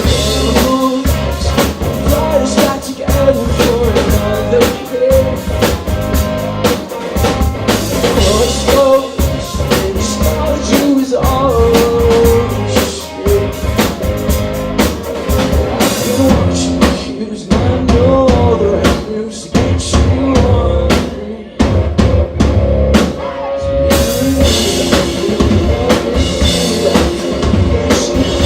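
Live rock band playing an instrumental stretch of a song: a full drum kit keeps a steady beat under bass and electric guitar. The cymbals drop out for a few seconds past the middle and crash back in near the end.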